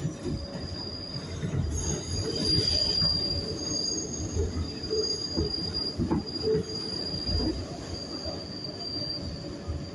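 New York City subway train running through the station, its steel wheels squealing on the rails. A steady high-pitched squeal sets in about a second and a half in, over a low rumble and irregular clatter.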